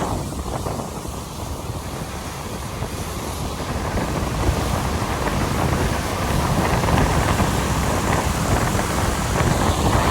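Steady rumble and hiss of traffic and tyres on a wet road in the rain, with wind buffeting the microphone. The noise slowly grows louder.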